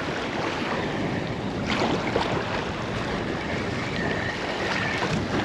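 Waves washing over and against a seawall, with wind on the microphone: a steady rushing of water, broken by a couple of short sharp sounds about two seconds in.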